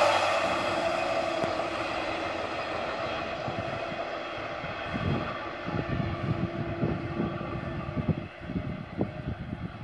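Passenger train receding: the rumble of its wheels on the rails fades steadily as the last coach moves away. From about five seconds in, irregular low thumps come and go.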